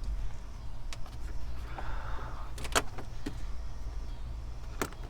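A handful of sharp, separate clicks and ticks from a screwdriver backing a Phillips-head screw out of a plastic dash side panel, over a steady low hum.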